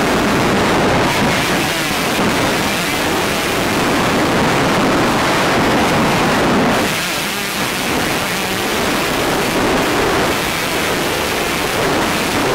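Wind rushing over a helmet camera's microphone, with a motocross bike's engine running underneath; the noise eases briefly about seven seconds in.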